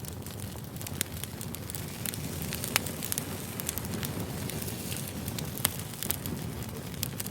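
Campfire burning: a steady low rush of flames with frequent sharp pops and snaps of burning wood.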